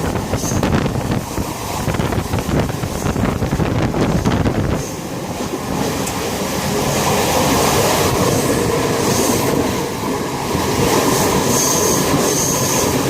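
Passenger train running on the rails: a steady rumble and rattle of the cars with light clacks from the wheels. The sound is gusty and rough for the first few seconds, then settles into a smoother, even run.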